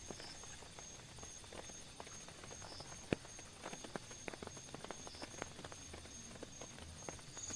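Scattered raindrops tapping irregularly on a tent, with one louder drop about three seconds in. A faint high, evenly pulsing chirp runs underneath.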